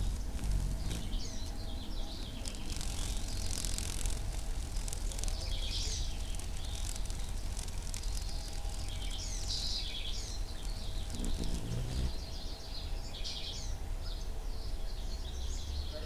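Birds chirping and singing in short, high, warbling phrases that recur throughout, over a steady low outdoor rumble.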